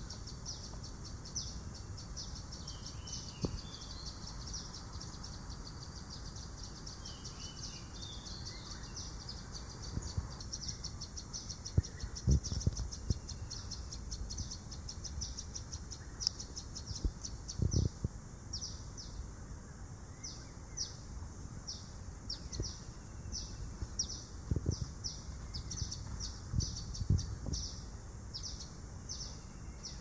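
Birds calling in a garden: a long run of short, high chirps repeated several times a second, spacing out a little in the second half, with a few lower calls in the first ten seconds. A few low thumps stand out as the loudest moments.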